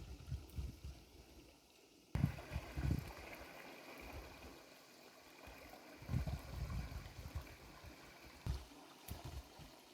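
Running water gurgling and trickling, coming in abruptly about two seconds in, with gusts of wind buffeting the microphone.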